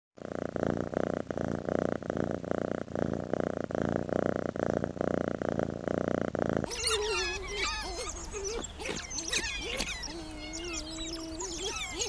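Domestic cat purring, a steady rhythmic pulsing. About six and a half seconds in it cuts off abruptly and gives way to many high chirping and squealing calls.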